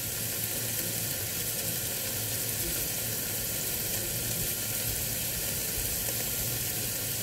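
Diced onion and tomato sizzling in margarine in an electric multi-cooker pot: a steady frying hiss.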